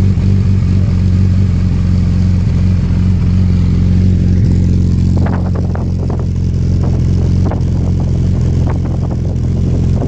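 Suzuki GSX1300R Hayabusa's inline-four idling steadily through an aftermarket GPR exhaust, with brief clicks from about halfway on.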